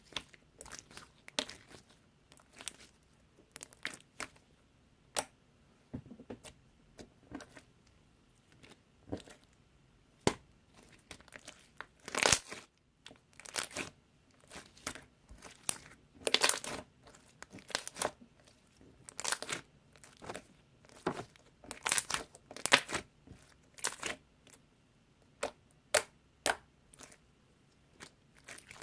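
Slime being squeezed and worked by hand, giving irregular crackling and crunching clicks, sometimes single and sometimes in quick clusters.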